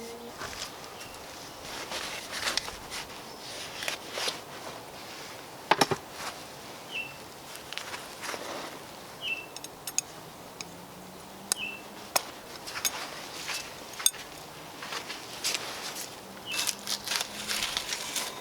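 Prototype multi-tool blade used as a draw knife, shaving wood in irregular scraping strokes with a few sharp clicks. A bird chirps several times and an insect buzzes faintly.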